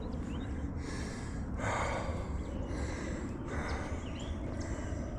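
A man breathing hard from a steep uphill climb, about one heavy breath a second, over a steady low rumble.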